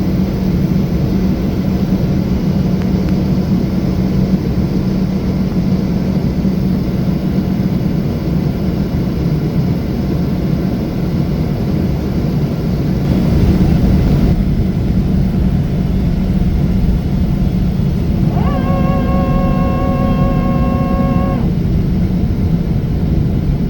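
Steady cabin rumble of a Boeing 777-300 airliner, engines and airflow, with a low hum throughout. About halfway through there is a brief louder swell of noise, and near the end a steady pitched tone sounds for about three seconds.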